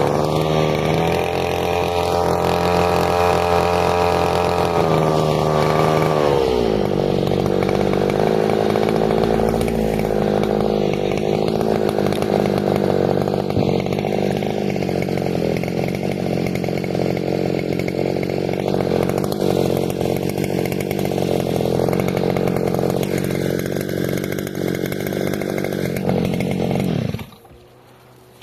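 Small outboard motor, of about 2.5 to 3 hp, pushing a kayak at speed. Its pitch drops about six seconds in as the throttle eases, then it runs steadily and stops abruptly near the end.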